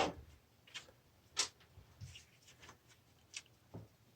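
A handful of light clicks and taps from small metal valve parts and a mounting bracket being handled and fitted, the sharpest about a second and a half in.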